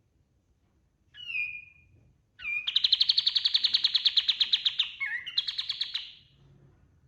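Kapas tembak songbird singing: a single short call with a falling sweep, then a long, rapid trill of evenly repeated high notes, about a dozen a second, that breaks briefly once and ends near the end.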